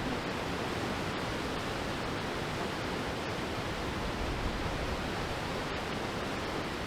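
Steady, even rushing of the Goðafoss waterfall's falling water.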